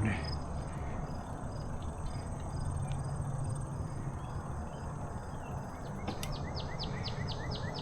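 Steady high insect chorus of crickets over a low rushing noise. About six seconds in, a rapid series of short, high chirps starts, about five a second.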